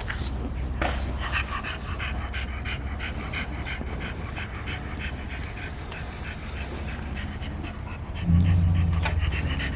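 A dog panting in quick, even breaths. A low steady hum comes in near the end.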